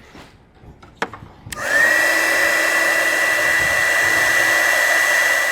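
A click, then a heat gun switching on: its fan motor spins up in a fraction of a second to a steady high whine over a rush of air, running on without change.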